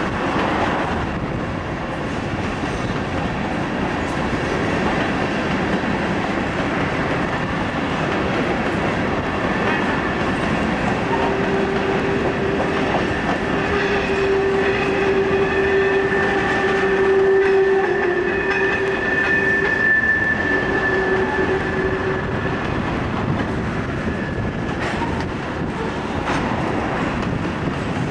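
A train rolling past on the tracks with a continuous rumble of wheels on rail. Through the middle a steady whine comes and goes in a few stretches.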